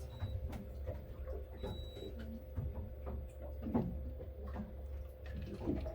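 Enclosed cabin ambience: a steady low hum with a faint steady tone, and scattered small clicks and knocks.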